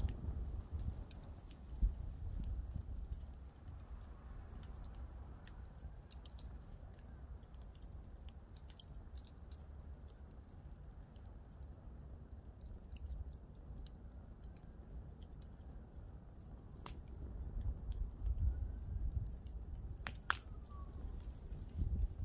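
Campfire wood crackling, with scattered sharp pops, two louder ones near the end, over a low rumble.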